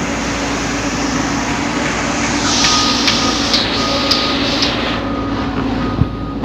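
A large diesel engine running steadily with a constant low hum. A hiss rises over it for a couple of seconds in the middle, with a few light clicks.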